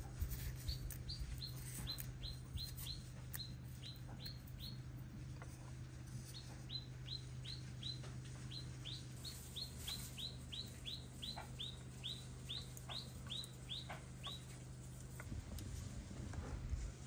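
A bird calling a fast series of short, high, downward-sliding notes, about three a second, in two runs with a short break between them.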